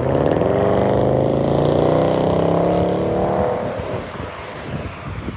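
A car engine accelerating, its pitch climbing steadily for about three and a half seconds, then fading away.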